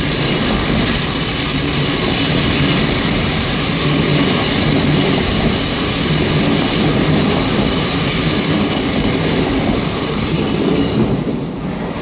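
Intercity Express Train (IET) pulling out, its wheels and running gear rumbling steadily with high, steady squealing from the wheels on the track. The sound drops away about eleven seconds in as the train clears.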